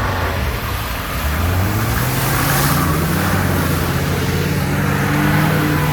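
Off-road jeep's engine revving up about a second in, then holding steady at high revs.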